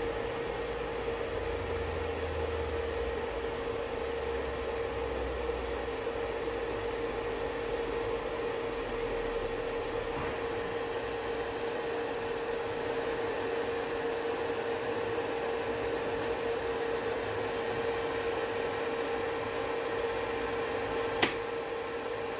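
Electric motor driven by a repaired Hyundai N300-075HF inverter running steadily: a whirring hum with a high-pitched inverter whine over it. About ten seconds in, the whine steps higher and fainter and the sound gets a little quieter. A single sharp click comes near the end.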